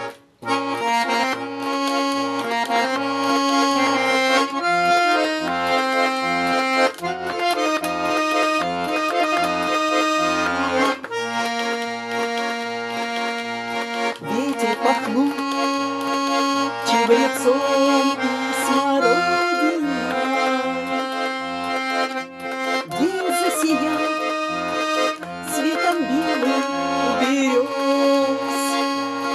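Russian garmon playing an instrumental introduction: a melody over held chords, with the left-hand bass notes pumping in an even rhythm.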